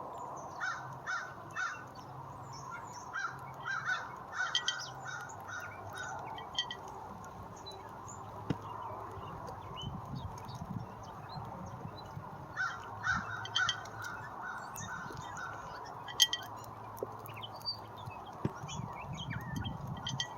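Birds calling in bouts of short, repeated notes, several in quick succession, a few times over, above a steady low background noise.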